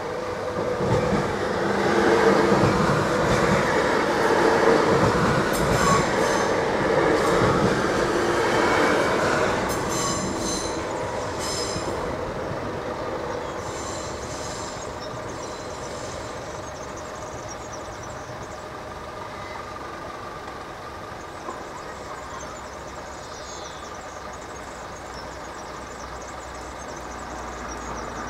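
Train running past on the rails. Its rumble builds over the first couple of seconds, holds for several seconds, then slowly fades away. Several brief high wheel squeals sound as it goes.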